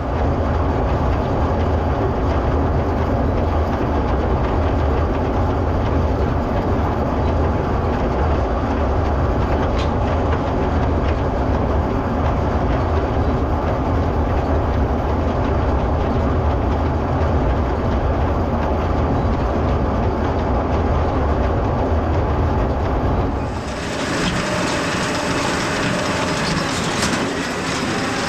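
International 1066 tractor running steadily under load, pulling a New Holland Hayliner small square baler with its clatter running alongside. About 23 seconds in, the deep rumble drops back and more high-pitched clatter comes through.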